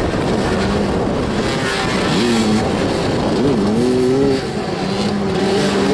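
Several motoball motorcycle engines running and revving, their pitch rising and falling as the riders accelerate and ease off, with a short drop in level a little after four seconds.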